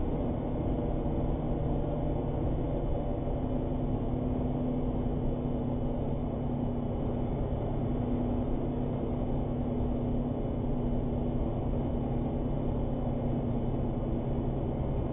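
Armored truck's engine and road noise heard from inside the cab while driving, a steady low drone with a faint hum.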